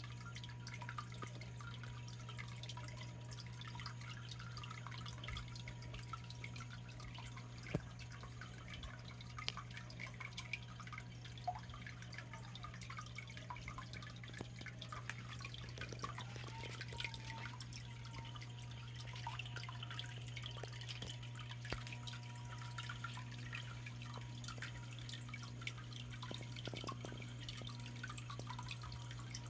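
Small waterfall in a garden biotope pond: water trickling and dripping into the pool in many small splashes. A steady low hum runs underneath.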